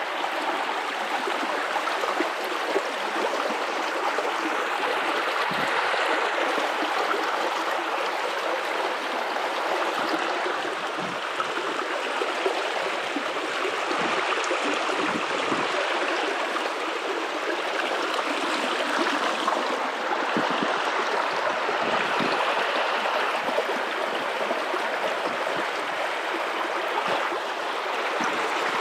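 River water running and rushing over rocks, a steady bright rushing with small splashing and gurgling flickers.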